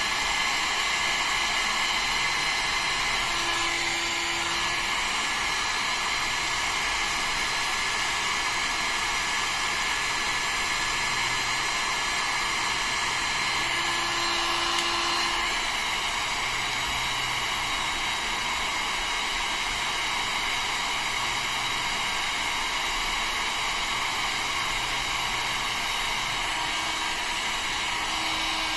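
Electric heat gun running steadily, its fan blowing hard with a steady high whine over the rush of air. A faint low tone comes in briefly three times.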